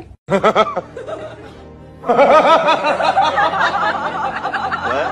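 Human laughter: a quick burst of giggles in the first second, then a long run of rapid cackling from about two seconds in.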